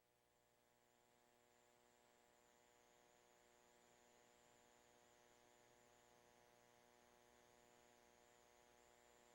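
Near silence: a faint steady electrical hum on the audio feed.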